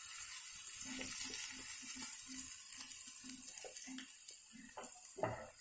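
Potatoes and drumstick leaves frying in an oiled pan with a steady, faint sizzle. A few short knocks of the spatula against the pan come near the end.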